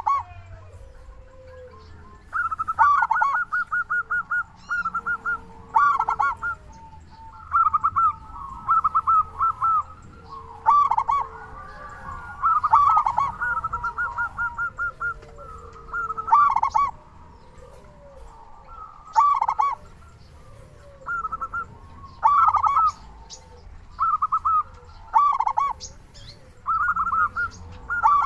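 Zebra dove (perkutut) cooing in its full song, over and over: each phrase is a quick run of stuttering notes ending in a longer, lower coo, repeated every two to three seconds.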